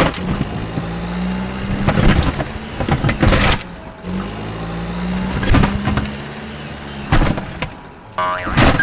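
Steady low hum broken by sharp knocks every second or two, with a wobbling cartoon-style boing starting near the end.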